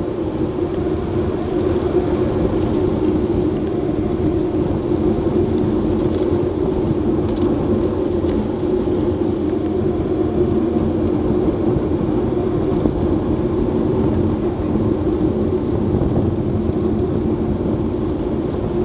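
Steady rush of wind over an action camera's microphone and tyre noise while cycling on the road, with a constant low hum.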